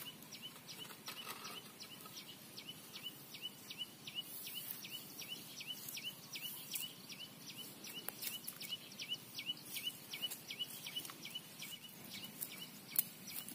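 A bird calling steadily with a short, high, hooked chirp repeated about three times a second, faint over outdoor background hiss. A single sharp click near the end.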